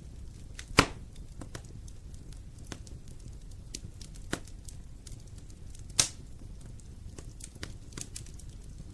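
Wood fire crackling in a fireplace: scattered sharp pops and snaps over a low steady rumble, with two loud pops, about a second in and about six seconds in.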